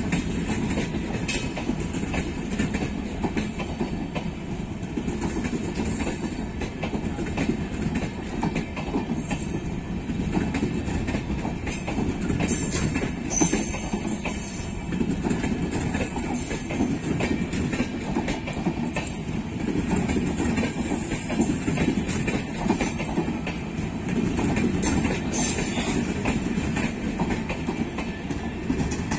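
LHB passenger coaches of an express train rolling past at speed, with a steady rumble of wheels on rail and a clickety-clack over the rail joints. A few brief high-pitched squeaks come through, about twelve seconds in and again near the end.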